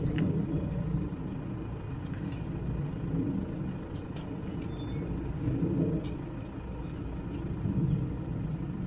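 A recovery truck's engine idling: a steady low rumble that swells now and then, with a few light clicks.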